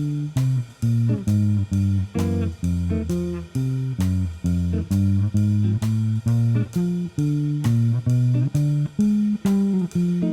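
Solo guitar playing a walking bass line in a blues in F: a steady stream of low plucked notes at an even walking pace.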